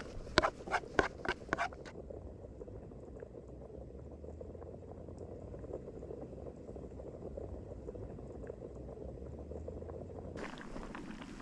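A few sharp knocks, then a pot of water boiling on a Trangia spirit stove: a steady bubbling that cuts off suddenly about a second before the end.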